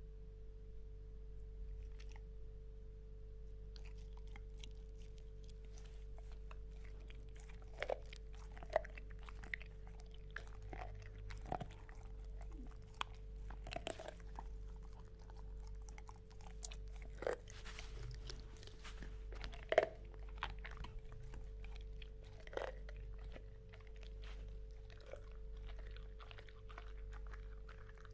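A dog chewing, with irregular crunching clicks over a steady low hum.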